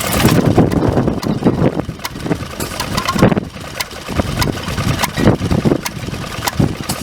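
Vintage stationary engines running slowly, their exhaust beats coming at uneven intervals.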